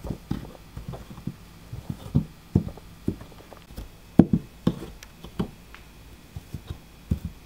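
Plastic hooves of Schleich toy horses tapping and knocking unevenly on a surface covered in fake snow as the figures are walked along.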